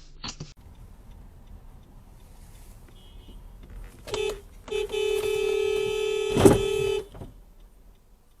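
Car horn sounded in a short beep, then a long steady blast of about two seconds, with a sharp thump near the end of the blast.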